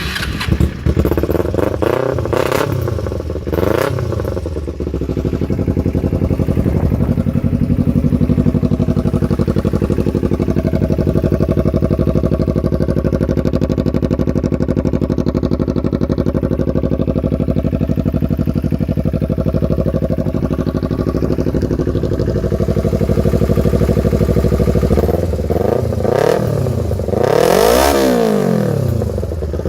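Kawasaki Ninja 250R's parallel-twin engine running loud through a Shorty GP aftermarket slip-on exhaust. It is revved a few times in the first seconds, settles to a steady idle, then is revved hard once near the end.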